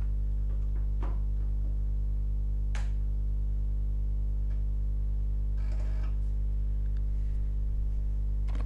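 Steady electrical mains hum, a low buzzing drone that holds without change, with a few faint clicks and rustles.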